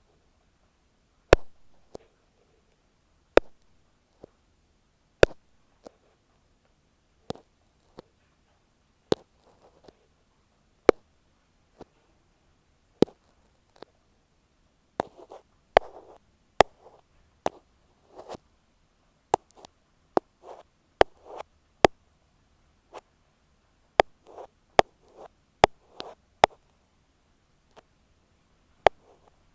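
Ear pick tapping and rubbing on an earphone microphone: sharp, irregular taps with silence between them, sparse at first and coming faster from about halfway, with soft scratchy rubs in among the later taps.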